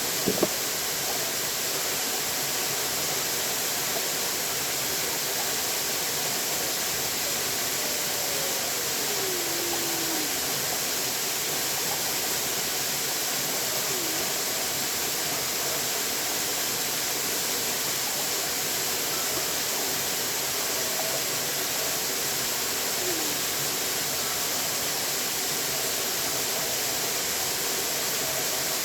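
Water rushing steadily, an even hiss-like noise with no let-up. Two sharp clicks come just after the start, and a few faint falling tones sound through it.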